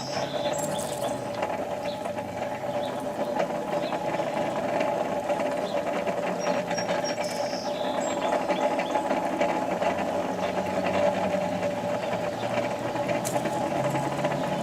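Coal forge blower running steadily, a constant mechanical whir, while a piece of hardened steel is heated slowly for tempering.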